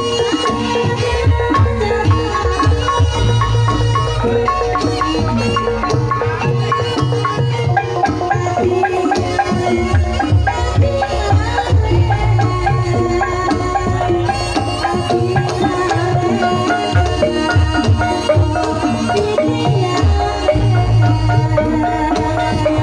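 Live gamelan music accompanying an ebeg dance: struck mallet instruments play a busy melody over repeated kendang drum strokes.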